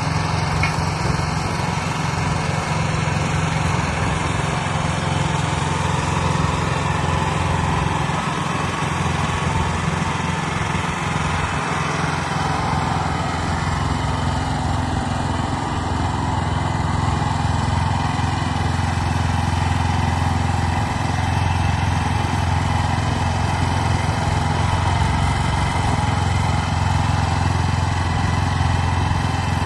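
The 13.5 hp engine of an MT800 mini concrete mixer truck running steadily, working the machine. The note shifts slightly partway through.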